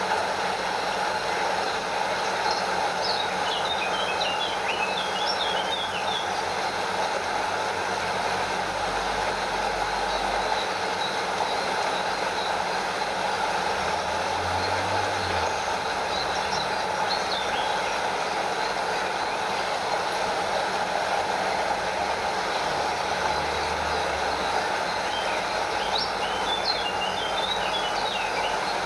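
Stream water rushing and splashing over a small waterfall in a steady, even wash. Clusters of brief high chirps come through twice, a few seconds in and again near the end.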